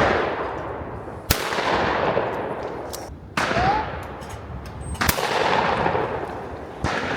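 Shotgun fired three times at clay targets, about two seconds apart, each shot trailing off in a long fading echo.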